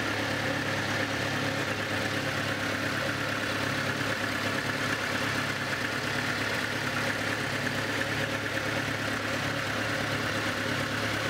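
Datsun L20B 2.0-litre inline-four idling steadily, its valves freshly adjusted to cure an earlier valve noise.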